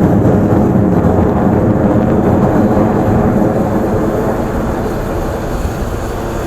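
Su-30SM fighter jets' AL-31FP turbofan engines making a loud, deep, steady rumble that eases slightly toward the end.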